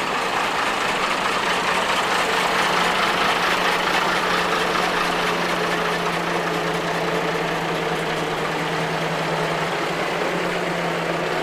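An engine idling steadily with an even hum, likely a large vehicle engine.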